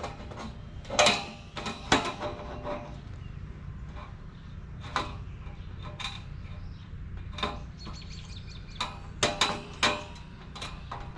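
Scattered metallic clanks and clicks from handling the galvanized steel panels and hardware of a metal raised garden bed during assembly, over a steady low background noise.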